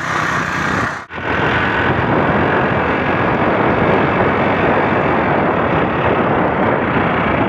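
Heavy rainstorm: a loud, steady, dense rush of downpour that begins abruptly, with a brief break about a second in.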